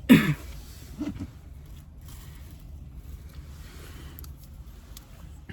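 Steady low hum inside a car's cabin. Right at the start there is a short, loud sound falling in pitch, and a smaller one about a second in.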